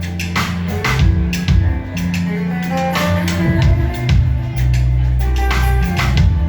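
Live pop band music without vocals: a drum kit beat with regular kick and snare hits over a deep, sustained bass line and guitar.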